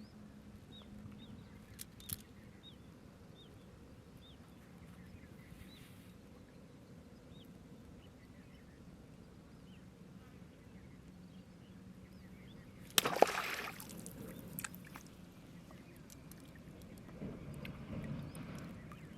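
Quiet riverside ambience with a bird giving short chirps about twice a second through the first half. About two-thirds of the way in comes a sudden loud burst of noise, and water sloshes near the end.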